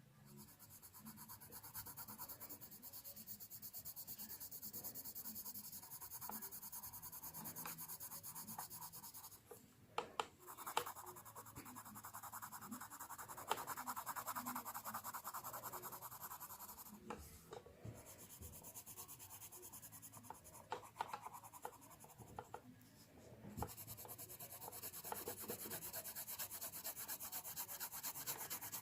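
Drawing on paper: fast, continuous back-and-forth scribbling strokes, as in colouring in, in long runs with short breaks about ten, seventeen and twenty-four seconds in, and a few light taps near the first break.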